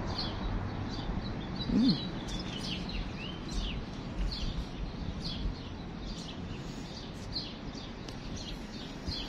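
Small songbirds chirping, with many short, high, quickly repeated notes from more than one bird. A low, steady rumble of background noise runs underneath.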